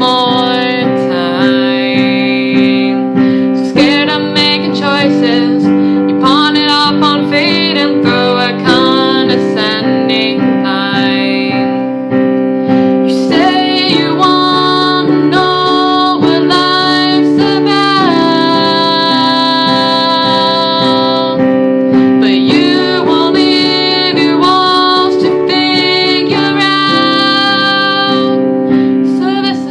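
A woman singing a slow song with piano accompaniment. She holds one long note about two-thirds of the way through.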